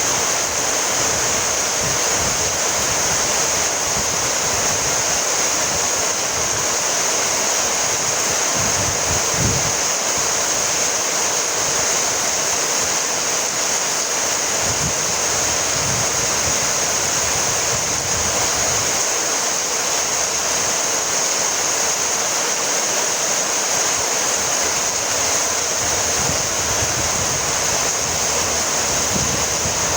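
Steady rainfall: an even, unbroken hiss of rain with no change in intensity.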